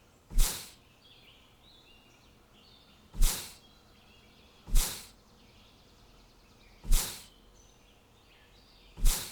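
Five short, loud whooshes at uneven intervals of about one and a half to two seconds. Faint bird chirps sound between them.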